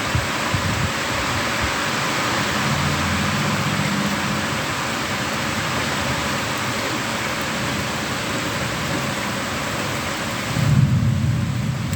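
Heavy rain during a thunderstorm, a steady hiss, with a low rumble underneath. Near the end the hiss drops away suddenly and a louder low rumble takes over.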